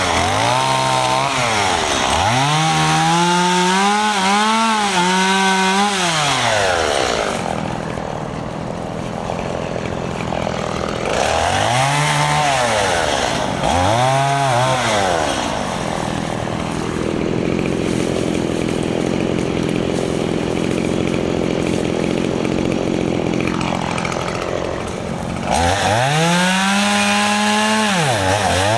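Stihl MS 170 small two-stroke chainsaw cutting limbs. It is revved up and down over and over, the pitch rising and falling, with two longer stretches of steadier, lower running in between.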